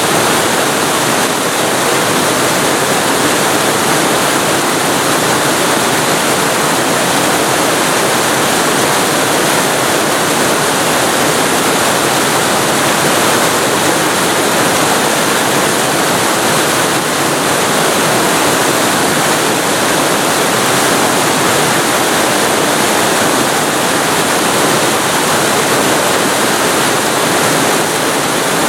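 Waterfall heard from very close, a loud, steady rush of falling water with no breaks or changes.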